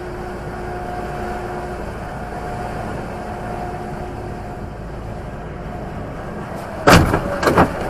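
Steady engine and road noise of a moving car, then, about seven seconds in, a sudden loud crash of a car collision followed by several more impacts.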